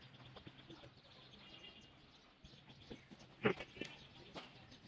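Quiet outdoor ambience with faint bird chirps, and one brief louder call about three and a half seconds in.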